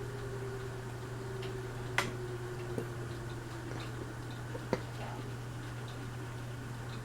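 Westinghouse Apollo Elite ceiling fan running on medium speed: a steady low hum with faint ticking. There are three sharp clicks, the loudest about two seconds in and the others near three and five seconds.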